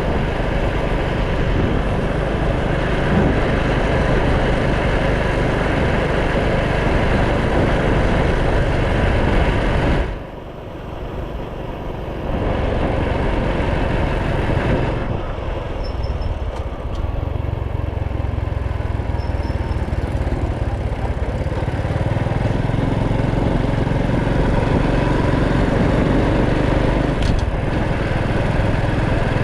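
Motorcycle engine running under a rush of wind and road noise while riding, easing off briefly about ten seconds in, then a steadier low engine note through the second half.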